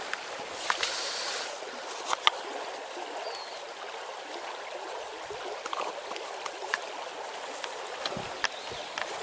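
A shallow river riffle running over stones: a steady rush of water, with a few sharp clicks and knocks scattered through it.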